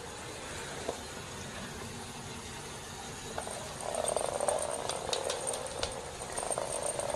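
Baby parrot making soft raspy, croaking chatter that starts about halfway through and comes and goes, with a few sharp clicks.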